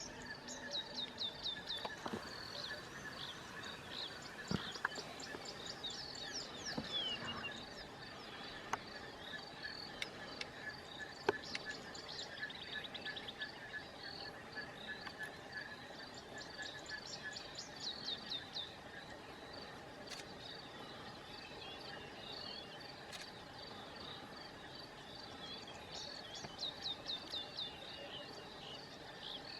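Outdoor bird chorus: bursts of rapid, falling high notes, repeated every few seconds, over a steady faint high chirring, with a few faint clicks.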